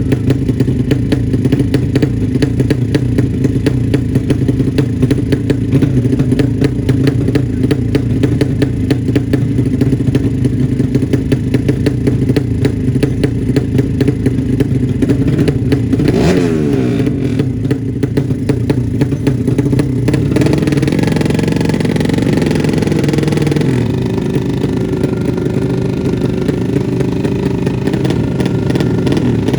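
Tuned 200cc drag-bike motorcycle engine running loud, with a rapid, even firing beat. There is a short pitch sweep about halfway through, and the tone shifts shortly after.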